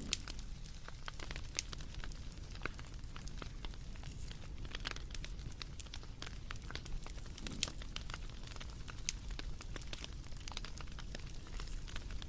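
Wood fire crackling: irregular sharp pops and snaps over a low steady rumble, with a few louder pops scattered through.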